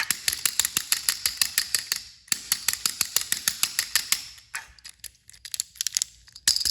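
Fast, even mechanical clicking, about eight clicks a second, in two runs of about two seconds with a short break between, then a few scattered clicks.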